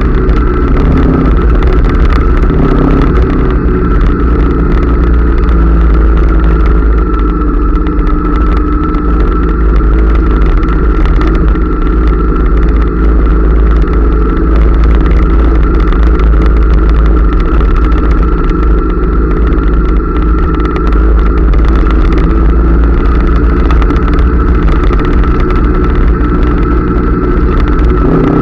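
Honda CRF250L's single-cylinder four-stroke engine running steadily while riding, heard from a camera mounted on the bike, with heavy wind rumble on the microphone.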